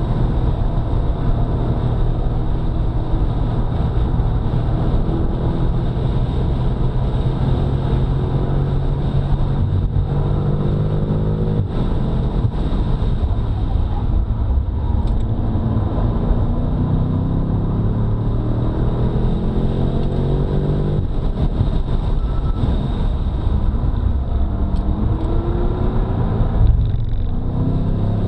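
BMW F90 M5's twin-turbo V8 driven hard on track. Its pitch climbs under load and drops back several times at gear changes, over a steady rush of wind and tyre noise.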